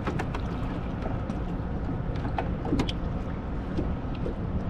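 Scattered sharp clicks and light knocks of fishing tackle and boat gear being handled while a catfish is landed, over a steady low rumble.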